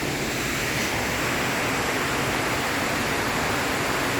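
Waterfall rushing close by, a steady, even roar of falling water.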